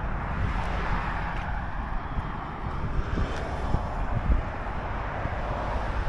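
Steady distant engine noise, a broad rumbling hiss, with low rumble on the microphone.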